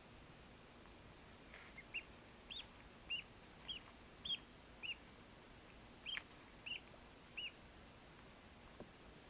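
Newly hatched duckling peeping, still working its way out of the shell: about nine short, high peeps spread over five seconds, each rising and falling in pitch, with a brief pause midway.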